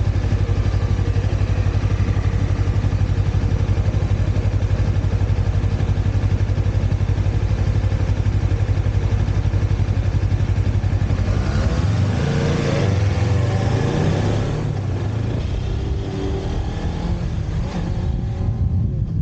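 Motorcycle engine running with a steady, even pulse. About twelve seconds in the note changes: a louder, noisier stretch with the pitch sliding up and down for a couple of seconds, after which it settles into a quieter, different running sound.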